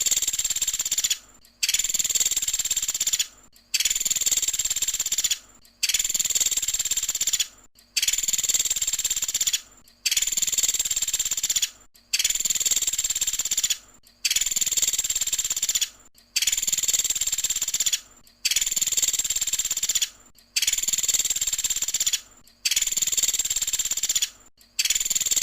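Pelatuk sampit bird giving its high, fast, buzzy trill, a 'tembakan' burst, about two seconds long, repeated over and over with short breaks as a looped training recording.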